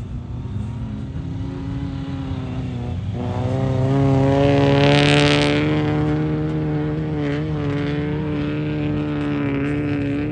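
Vintage open-top racing sports car's engine running at steady revs as it drives past. The engine note swells about three seconds in and is loudest a second or two later, with a brief rushing hiss at the peak, then holds fairly steady with a small wobble in pitch.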